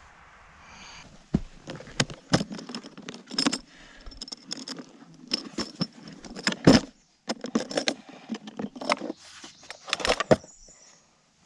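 Irregular metallic clinking and clattering as small hard metal objects are handled and knocked together, with no motor running.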